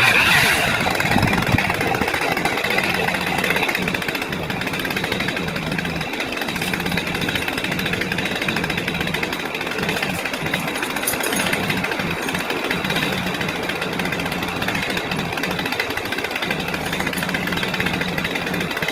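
Tractor engine running steadily with a rattly clatter, its low hum dipping briefly a couple of times.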